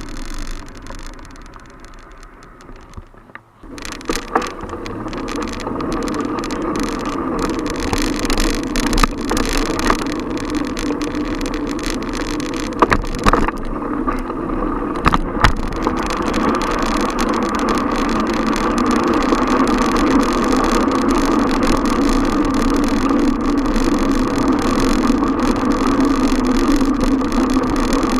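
Steady street-traffic and riding noise picked up by a camera on a moving bicycle. It is quieter for the first few seconds, then louder and continuous, with a few sharp knocks around the middle.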